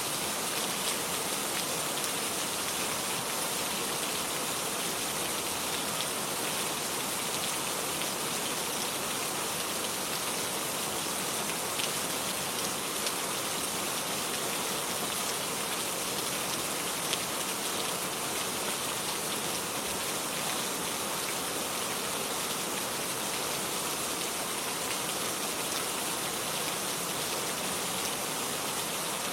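Steady rain falling on a garden, an even hiss with scattered drop ticks.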